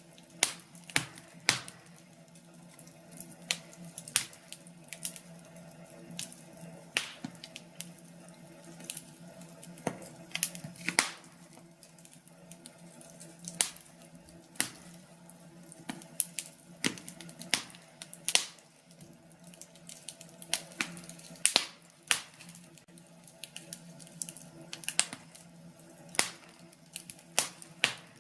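Wood fire crackling in a fireplace: irregular sharp pops and snaps, a few stronger ones every second or two, over a faint steady hum.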